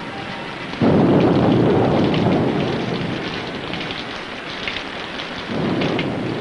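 Rainstorm from an old film soundtrack: steady heavy rain, with a sudden loud thunderclap about a second in that rumbles away over a couple of seconds, and a second, weaker thunder rumble near the end.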